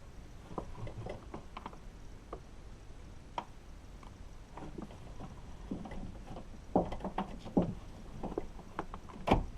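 Scattered clicks and knocks of hand tools and parts being worked inside a car door while the lock actuator is removed. The knocks get busier and louder in the second half, with the sharpest one near the end.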